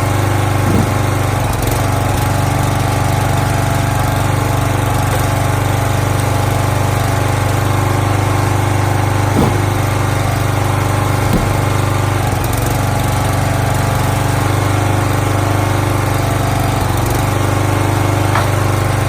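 Small gasoline engine of a log splitter running steadily at a constant speed, with a few light knocks of wood.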